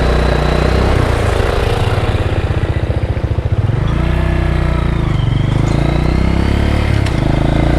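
Motorcycle engine running under way, a low throb for the first few seconds and then its pitch shifting up and down with the throttle, over road and wind noise.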